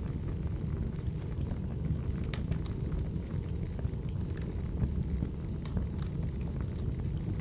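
Wood fire burning: a steady low rumble with scattered sharp crackles and pops, a cluster of them a little after two seconds and more around four seconds in.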